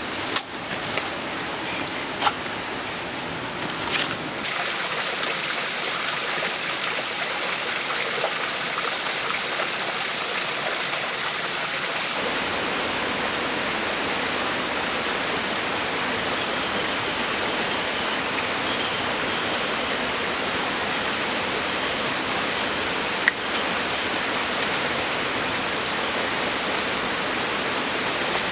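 Steady rush of falling and running water from a waterfall and its stream, an even hiss with a few short ticks. The tone of the rush changes twice, about four seconds and twelve seconds in.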